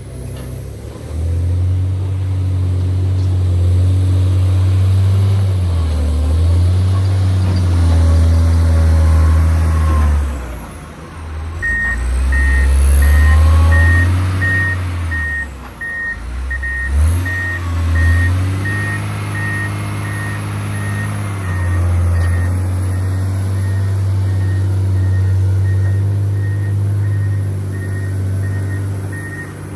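John Deere 670GP motor grader's diesel engine running under load, its revs rising and falling. From about twelve seconds in, its reversing alarm beeps at a steady high pitch.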